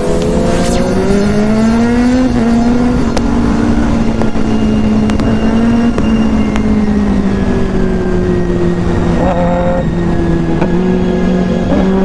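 Inline-four sport motorcycle engine under way. Its pitch rises over the first two seconds, then sinks slowly, with brief changes near the nine-second mark, over a heavy low rush of wind.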